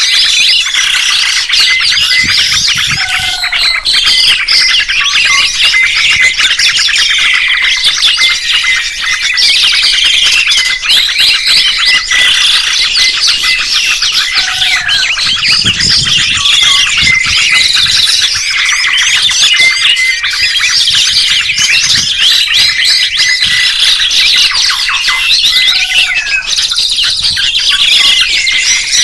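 Songbirds chirping and warbling in a dense, continuous chorus of many overlapping high calls, with a lower call returning about every eleven seconds.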